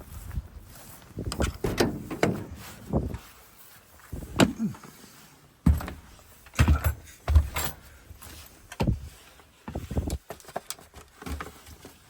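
Irregular clunks, knocks and rattles of metal ignition switches and their mounting panels being handled and set down, about a dozen hits with short gaps between them.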